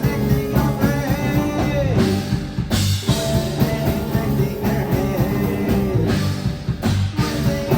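Live rock band playing a song at full volume, with drums and guitar, and two bright crashes about three seconds in and near the end.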